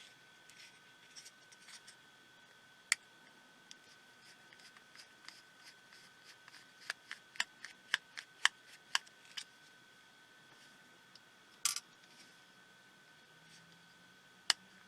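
Small screws being undone with a precision screwdriver on a tiny pico projector's housing: faint scattered sharp clicks, a quick run of about a dozen clicks past the middle, and a brief rasp shortly after.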